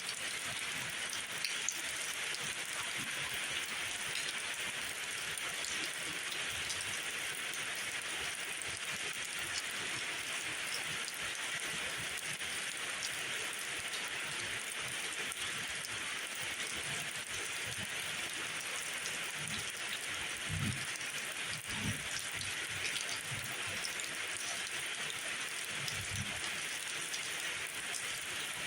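Steady rain falling, an even hiss with scattered drops, and a few soft low thuds about two-thirds of the way in and again near the end.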